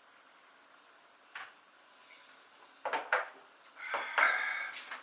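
Tableware clattering: a single click, then a few sharp knocks about three seconds in, and a busier clatter of dishes and cutlery near the end.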